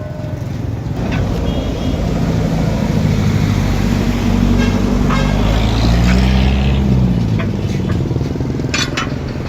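Backhoe engine running, its pitch rising and falling between about three and seven seconds in, with a few sharp clicks near the end.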